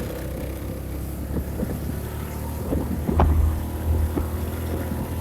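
A vehicle engine running steadily with a low hum, and wind on the microphone, with a brief knock about three seconds in.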